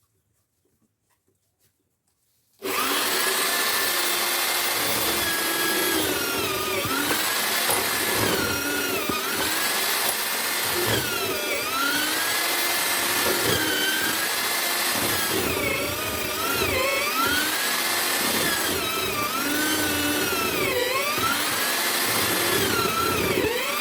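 Homemade drill-powered mortising machine starting abruptly about three seconds in and running loudly while cutting mortises in wood. Its motor whine dips in pitch and recovers again and again, every couple of seconds.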